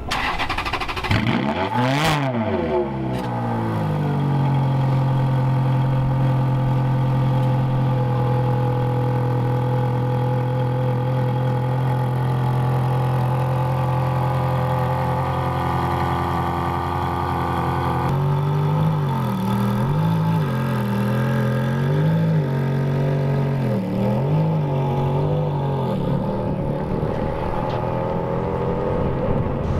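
A car engine revving: one quick sweep up and back down near the start, then held at a steady speed for a long stretch, then blipped up and down several times about once a second.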